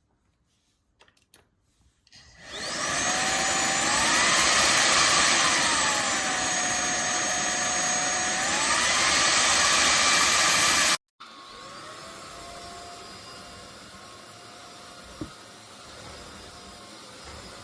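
A few small clicks, then the INTETURE cordless stick vacuum's motor spins up with a rising whine and runs loud. Its pitch drops, then climbs back. It cuts off suddenly, and a much quieter motor run follows.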